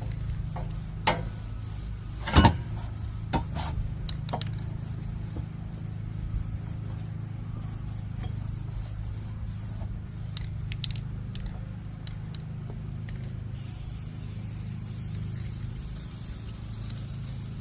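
Aerosol spray-paint can work: a few sharp clicks and knocks, the loudest about two and a half seconds in, over a steady low hum, with a faint spray hiss coming in near the end.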